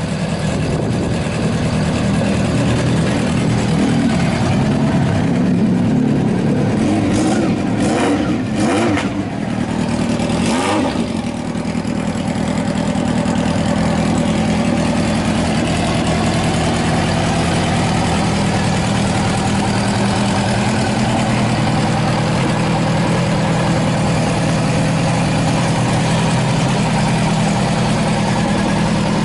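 Honda CB750 motorcycle's four-cylinder engine idling, blipped in a few quick revs about a quarter to a third of the way in, then settling back to a steady idle.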